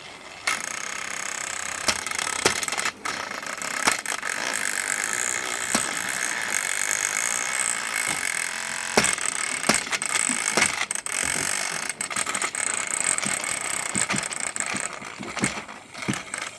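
Two battery-powered Thomas TrackMaster toy engines running against each other, their small motors and plastic gears whirring steadily with rapid clicking and rattling. The whirring starts about half a second in.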